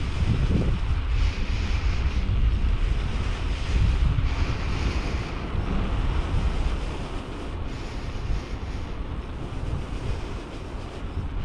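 Wind buffeting the microphone of a camera on a moving bicycle, a rumbling rush that eases off a little about halfway through.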